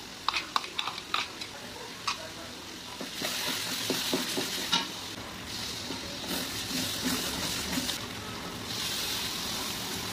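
A spatula clicks and scrapes against a steel grinder jar as paste is knocked out. From about three seconds in come repeated bursts of loud sizzling as water is poured into hot oil and masala in a karahi and stirred with a steel spatula.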